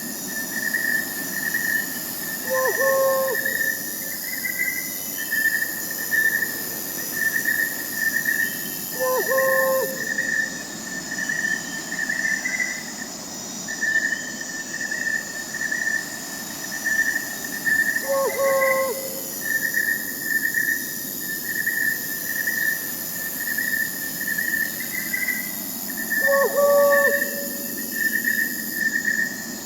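Crickets chirping in a steady, even rhythm about once a second over a high insect hiss, with a short owl hoot four times, several seconds apart.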